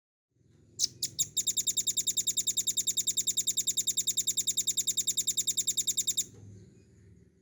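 Velvet-fronted nuthatch singing: a few sharp high notes, then a long rapid trill of evenly repeated notes, about ten a second, lasting nearly five seconds and stopping abruptly. A faint low hum runs beneath it.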